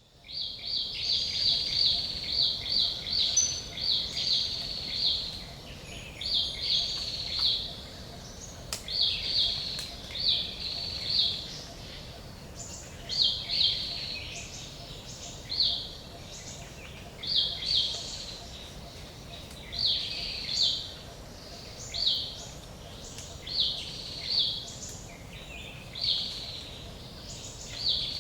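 Forest ambience: a bird chirping again and again, short high calls in quick runs at first and then in small groups every second or two, over a faint steady background hiss.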